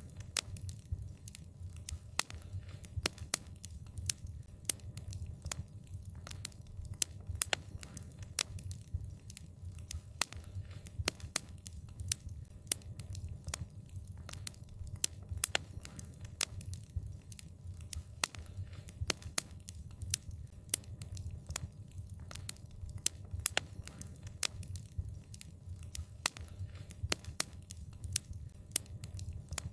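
Wood fire crackling: many sharp, irregular pops and snaps over a steady low rumble of flames.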